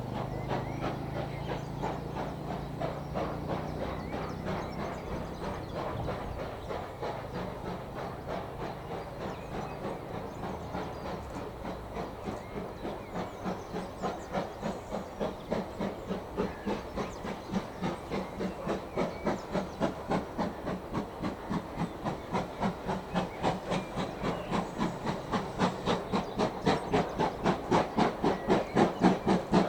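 Steam locomotive exhaust chuffing in an even rhythm of about two to three beats a second, with hiss, getting steadily louder toward the end as the engine works closer. A low steady hum sounds for the first few seconds.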